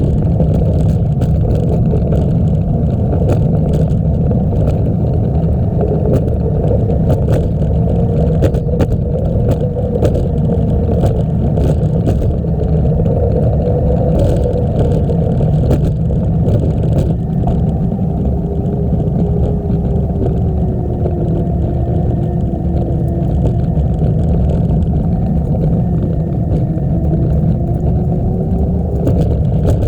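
Steady rushing wind noise on the microphone of a moving bicycle, mixed with the rumble of the tyres rolling on the trail. A faint hum slowly wavers in pitch, and light clicks and rattles come through now and then.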